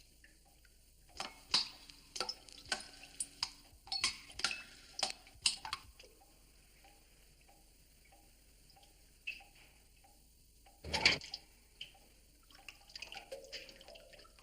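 Rainwater dripping through a leaking roof into pots and pans, with sharp metallic plinks. A quick run of drips comes first, then a fainter, even drip about twice a second, and one louder plink about eleven seconds in.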